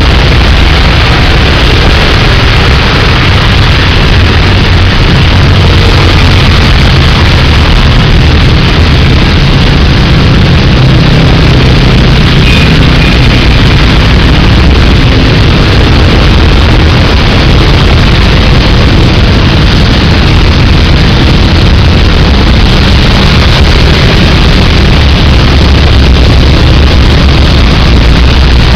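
Heavy rain with strong wind, a loud, steady noise with a deep rumble underneath.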